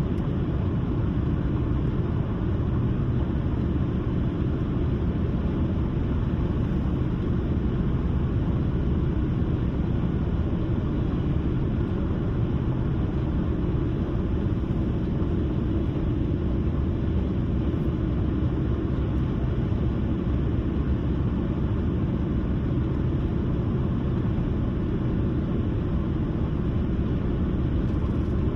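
Steady low road noise of a car driving at cruising speed: tyre and engine rumble heard from inside the moving car, even throughout with no distinct events.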